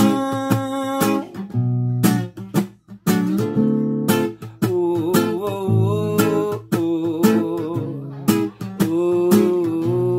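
Music: an acoustic guitar strummed in rhythm, with a held melody line over the chords.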